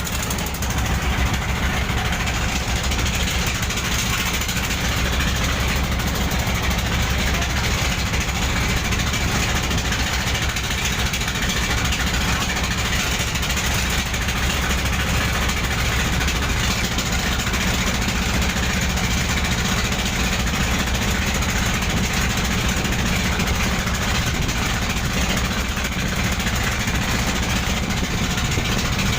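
Boat engine running steadily, a constant low hum under an even rushing noise.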